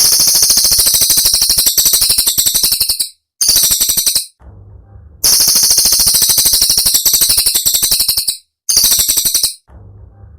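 Cililin song: a sharp, very high-pitched, rapid-fire trill of densely repeated notes. It comes in bursts, a long one of about three seconds, a short one, a brief pause, then another long burst and a short one.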